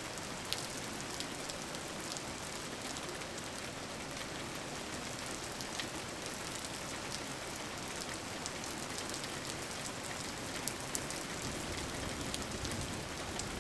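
Steady rain falling, a continuous hiss with scattered sharp drips and pattering drops.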